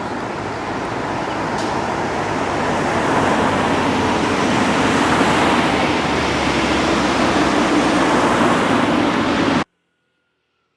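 Steady road-traffic noise, a rushing hiss that swells slightly over the first few seconds and then cuts off abruptly near the end.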